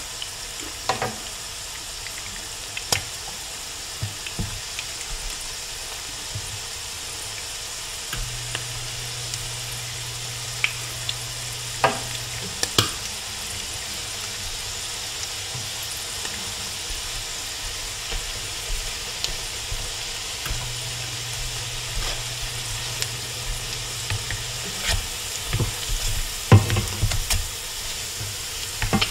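Salmon patties shallow-frying in oil in a skillet: a steady sizzle with scattered sharp pops of spitting oil. Near the end, spatulas knock and scrape in the pan as the patties are turned.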